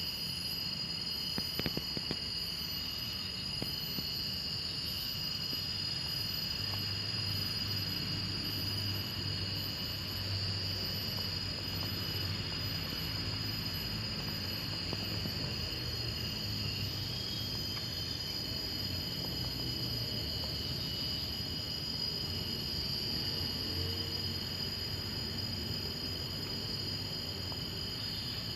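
A steady outdoor chorus of insects, with several high, constant trilling tones layered together and a faint low hum beneath. There are a few faint knocks about a second and a half in.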